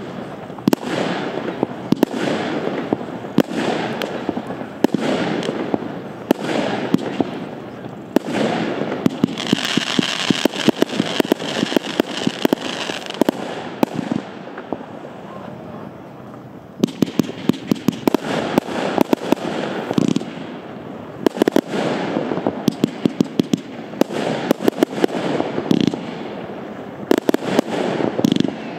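Wolff 'Disorder' Category F2 fireworks cake, 72 shots of 25 mm calibre, firing in sequence: repeated launch thumps and bursts laced with rapid crackling. It eases off briefly about halfway through, then picks up again with dense cracking.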